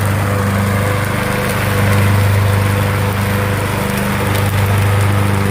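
Small engine of a riding lawn mower running steadily at a constant speed, with a low, even hum.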